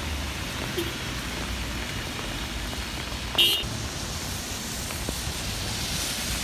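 Steady outdoor background noise with a low rumble, and one short high-pitched chirp about three and a half seconds in.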